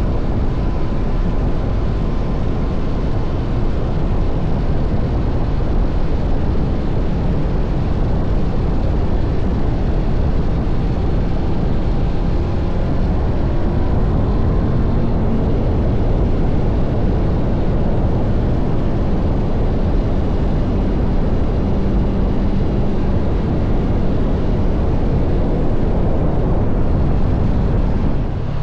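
Steady wind rush on an action camera's microphone while riding a Honda CBR500R motorcycle at a constant speed, with its parallel-twin engine running underneath.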